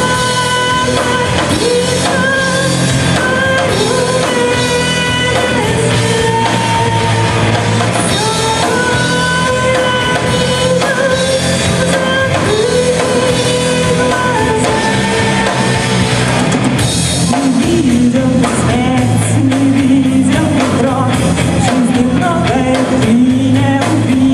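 Rock band playing live, loud and steady: drum kit and guitars under a held lead melody that steps between notes and drops lower about two-thirds of the way through.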